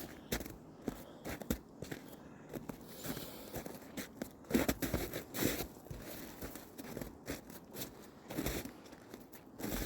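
Footsteps crunching through deep snow at an uneven walking pace, with the loudest steps around the middle.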